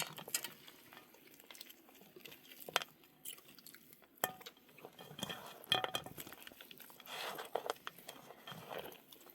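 Scattered light clinks and knocks, like dishes and cutlery being handled, with a few sharp ringing ticks about midway.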